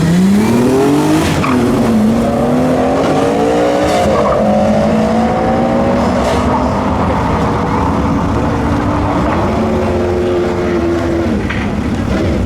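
Car engine at full throttle, rising in pitch as it accelerates, with several short drops in pitch that sound like gear changes. Heavy tyre and engine noise runs underneath.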